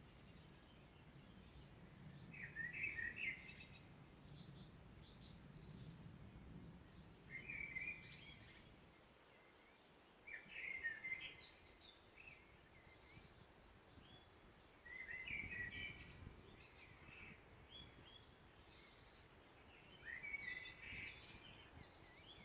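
A songbird singing short phrases of about a second each, five times, a few seconds apart, over a faint low background rumble.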